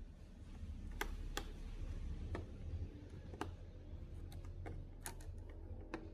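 Scattered light clicks and ticks, about eight to ten irregularly spaced, over a steady low hum.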